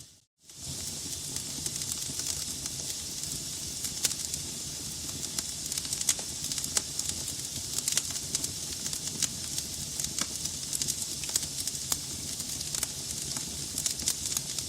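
Wood logs burning in a fireplace, crackling: a steady hiss with frequent sharp pops and snaps. The sound drops out for about half a second right at the start.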